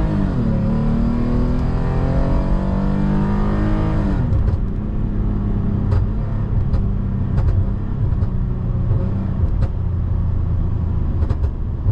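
Lexus IS250's 2.5-litre V6 accelerating through the gears, heard from inside the cabin with the window closed: the revs climb, dip briefly at a shift, then climb again. About four seconds in the driver lifts off and the engine drops to a lower rumble, with about seven scattered exhaust pops on the overrun from the ECU tune.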